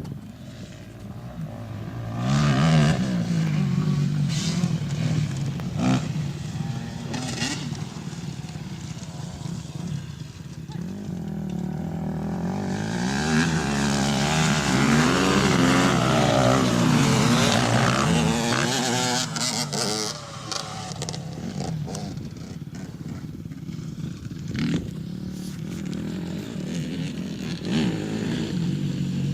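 Dirt bike engines revving, the pitch rising and falling repeatedly as the throttle is worked; loudest about halfway through, then settling to a steadier, lower running sound.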